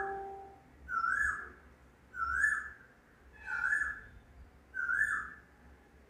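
A bird calling repeatedly: five near-identical short calls, about one every 1.2 seconds, each rising and then levelling off.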